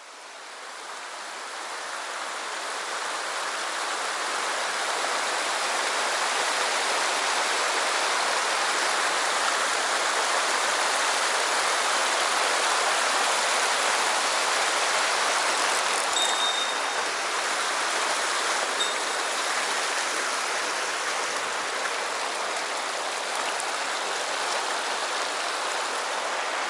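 Mountain headwater stream flowing steadily, a continuous rush of water that fades in over the first few seconds.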